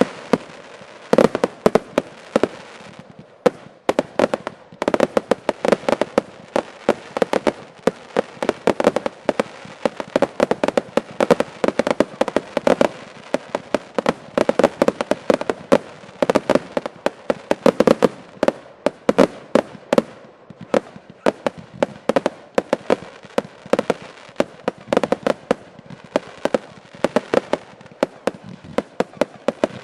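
Fireworks finale: a dense, unbroken run of loud bangs from shells bursting, many in each second.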